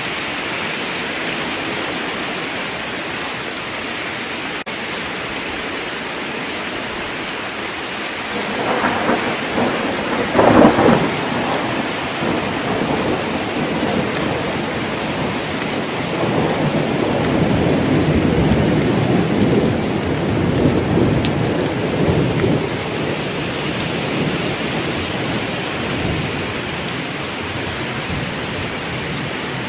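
Heavy rain falling steadily in a forest during a thunderstorm. A thunderclap cracks about nine to eleven seconds in, and low rolling thunder rumbles through the middle of the stretch before fading back into the rain.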